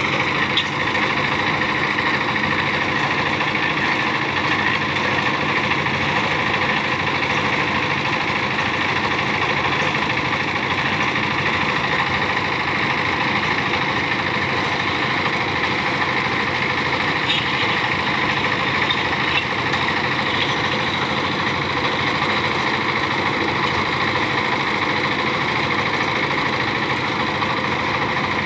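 An engine running steadily and evenly throughout, with a dense, unchanging mechanical noise.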